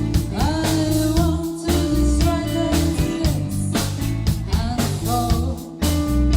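Rock-blues band playing: electric guitar, bass and drum kit, with a lead line bending in pitch over a steady beat, and a brief break shortly before the end.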